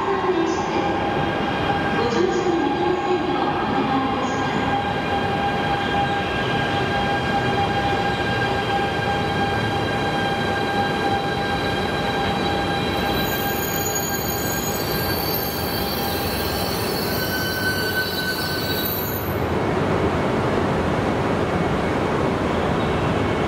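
E926 East-i Shinkansen inspection train, built on the E3 series, rolling slowly into the platform. Its running noise is steady and rumbling, with several level, high squealing tones from the wheels and brakes that die away about 19 seconds in as it slows.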